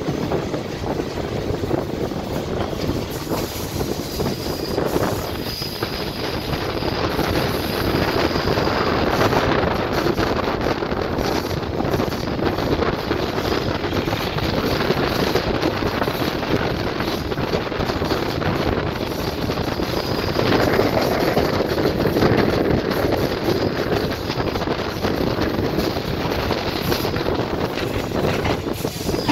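Passenger train in motion: the steady rushing rumble of the running train with wind buffeting the microphone, swelling a little in loudness now and then. A faint high-pitched squeal comes and goes twice.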